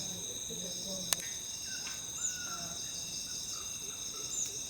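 Night chorus of crickets and other insects, a steady high-pitched trilling in several layered tones. A short high chirp repeats about every two seconds, and there is a single sharp click a little after a second in.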